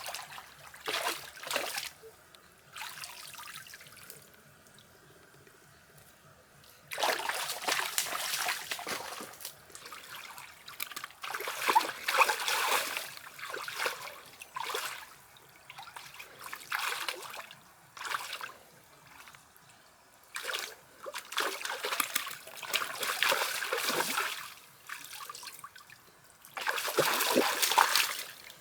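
Water splashing and trickling in irregular bursts of a few seconds each, with quiet pauses between, the longest a few seconds in.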